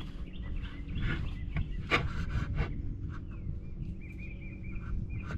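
A bass thrashing in a kayak: a few sharp knocks and scraping rubs as the fish flops about.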